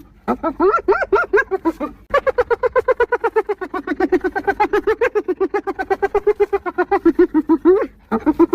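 Spotted hyena giggling: a fast run of high-pitched, staccato laugh notes, about eight a second, in a short bout and then a long one of about six seconds, breaking off briefly near the end.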